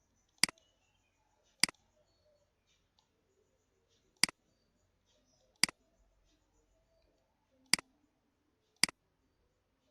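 Computer mouse button clicking six times at irregular intervals, each a sharp click.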